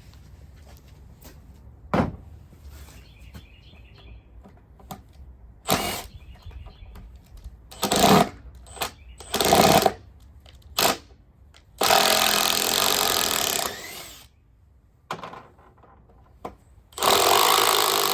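Makita XDT08 18V impact driver hammering as it backs out 3.5-inch screws: several short trigger bursts, then two longer runs of about two seconds each in the second half.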